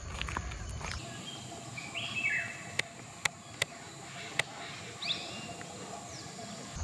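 Wild birds calling: a few short chirps with quick falling and rising pitch, and four sharp clicks between them.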